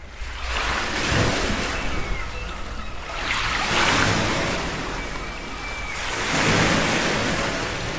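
Small ocean waves breaking and washing up a beach, the surf swelling and ebbing about every three seconds.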